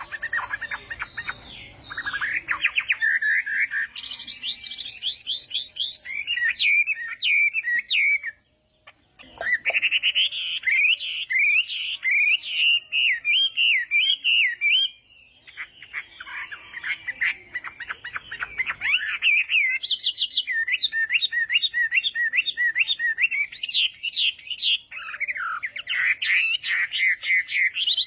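Chinese hwamei singing a loud, varied song of whistled phrases and rapid trills, with a brief pause about eight seconds in.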